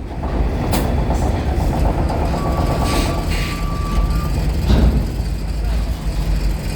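Heavy vehicle engines rumbling low and steady as trucks move across a RORO ferry's loading ramp, with a few sharp clanks. A thin, steady whistle-like tone sounds for about two seconds in the middle.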